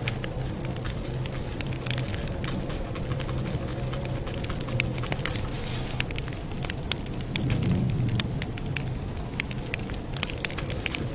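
Campfire crackling, with irregular sharp pops and snaps of burning wood over a steady low rumble of the flames. The rumble swells briefly a little past the middle.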